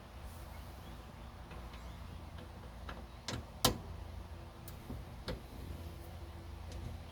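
A few short, sharp clicks and taps of small metal parts being handled, the loudest about three and a half seconds in, as a new ignition lock cylinder is worked into a steering column, over a steady low hum.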